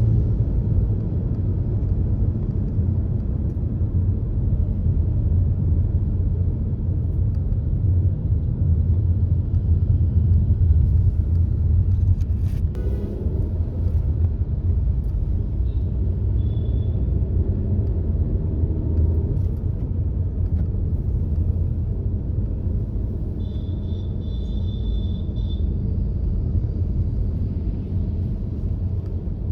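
Car driving along a road: a steady, low rumble of engine and tyre noise. About twelve seconds in there is a brief knock, and near the end a short high-pitched beeping tone.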